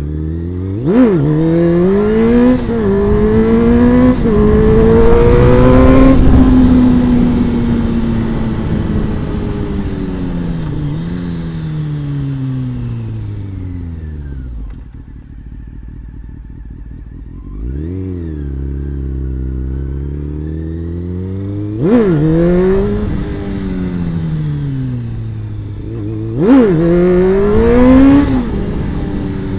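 Honda CBR600 sport bike's inline-four engine being ridden. The revs climb in steps as it shifts up, then fall slowly for several seconds as the bike slows on the overrun. Later the revs rise and fall again, with three sharp throttle blips, one about a second in and two near the end.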